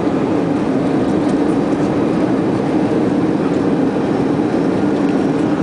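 Airbus A320 cabin noise on approach: a steady, loud roar of airflow and engines, with the landing gear extended.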